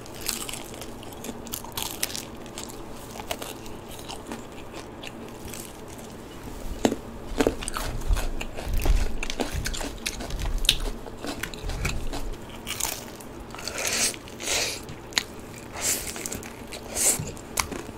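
Close-up eating sounds of crispy cheese-powdered Korean fried chicken being bitten and chewed: irregular sharp crunches, sparse at first and coming thick and loud from about seven seconds in.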